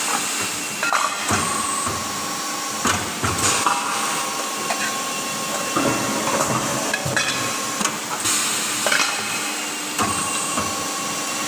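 Metalworking machinery running steadily, with irregular sharp metal clanks and knocks as sheet metal for kettle bodies is worked.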